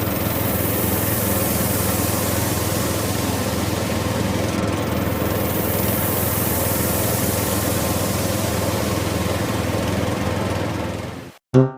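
A small motor running steadily, then cutting off suddenly near the end, followed right away by the first plucked notes of music.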